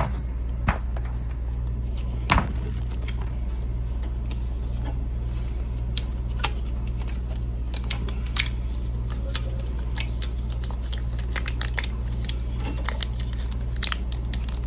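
Small clicks and crinkles of metal foil tape being handled and pressed into place by hand, more frequent near the end, over a steady low hum.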